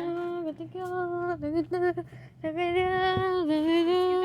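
A high voice humming a slow tune in long held notes, with a short break about two seconds in and a few faint clicks.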